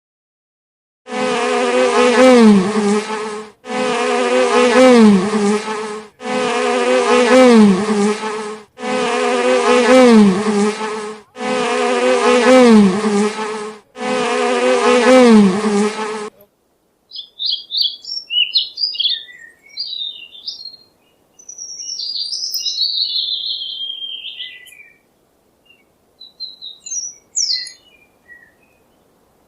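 Bee buzzing sound effect: one clip of about two and a half seconds played six times back to back. After it come high, bird-like chirps and twittering calls.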